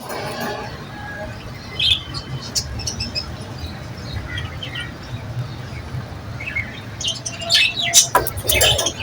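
Pet budgerigars chirping and twittering in short calls over a steady low hum. The chirping gets busier and louder about seven seconds in.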